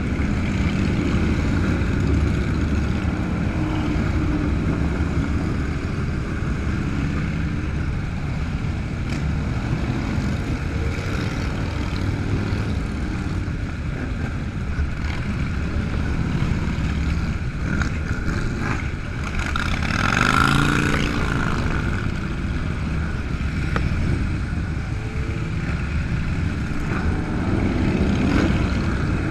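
Motorcycle engines running with a steady rumble. About twenty seconds in, one engine swells louder, its pitch rising and then falling as it revs or passes close.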